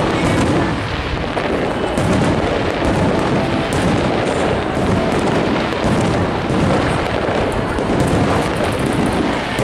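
Aerial fireworks going off in a continuous barrage, overlapping booms making a steady rumble with crackling on top.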